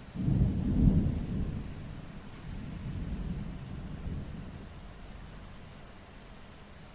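A roll of thunder over steady rain: a sudden low rumble breaks in just after the start, peaks about a second in, swells again around three seconds and fades away, with the rain hissing steadily throughout.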